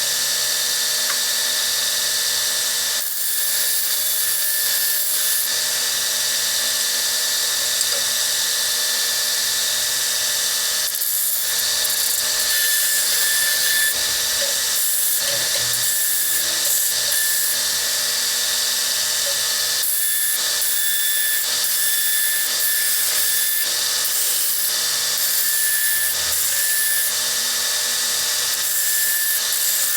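Electric drill running steadily and boring holes in iron hinge straps, the cutting noise rising and falling as the bit bites into the metal again and again.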